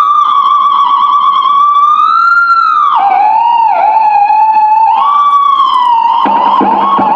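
A homemade theremin playing through an Orange amplifier: one continuous wavering electronic tone that swoops down about three seconds in and climbs back up about two seconds later.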